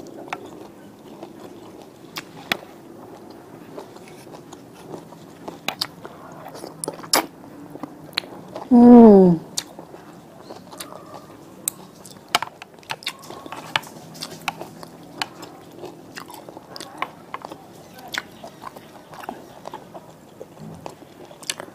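Close-miked eating sounds of a person chewing instant noodles: wet chewing and mouth clicks, with many short sharp clicks throughout. About nine seconds in comes one short, loud hum that falls in pitch.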